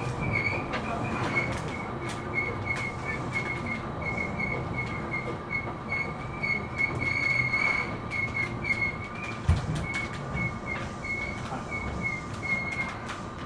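Running sound inside a Seibu New 2000 series electric commuter train: a high, pulsing squeal from the wheels that stops near the end, over the steady rumble of the car, with sharp clicks of the wheels passing over rail joints and points.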